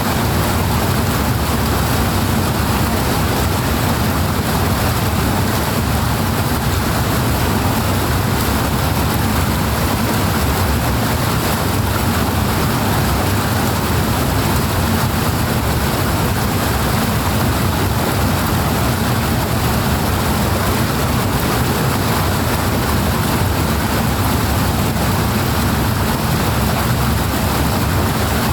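Powerful water rushing and splashing steadily, a dense unbroken noise with a deep low rumble and no change in level.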